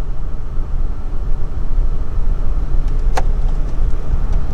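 Steady low rumble, with a single sharp click about three seconds in.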